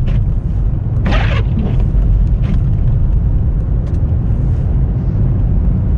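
Car driving through a blizzard, heard from inside the cabin: a steady low rumble of engine and road. A short swish comes about every second and a half, the windscreen wipers clearing snow from the glass.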